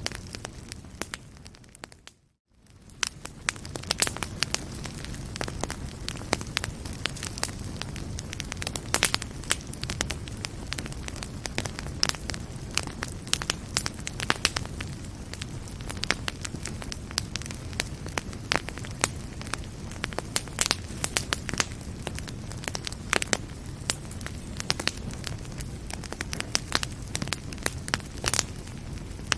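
Fireplace fire crackling, with frequent sharp pops over a steady low rumble of the flames. About two seconds in it fades out to silence for a moment, then fades back in.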